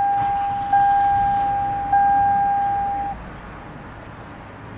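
Dashboard warning chime of a 2004 Toyota Sienna: a single-pitch ding repeating about every 1.2 seconds, each ding fading before the next, stopping about three seconds in. A low hum from the idling engine runs underneath.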